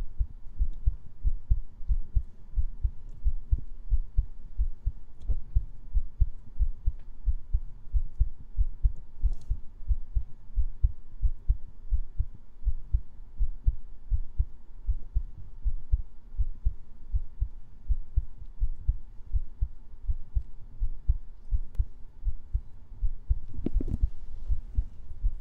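Heartbeat sound: low, soft thuds in a steady lub-dub rhythm, several a second, with a brief brushing noise near the end.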